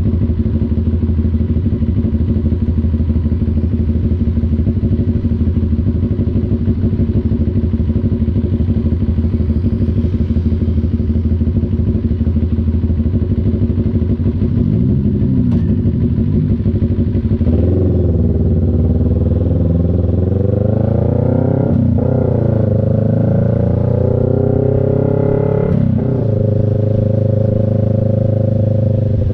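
CF Moto NK400 parallel-twin engine running at a steady low note, then from about halfway through pulling harder, its pitch rising and falling back at gear changes about 22 and 26 seconds in.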